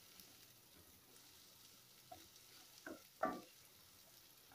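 Chopped onions, garlic and curry leaves frying in oil in a pan with a faint, steady sizzle, while a spatula stirs them. A few short stirring scrapes come around two to three seconds in, the loudest a little after three seconds.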